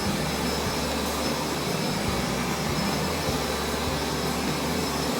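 Carpet-washing vacuum cleaner running steadily.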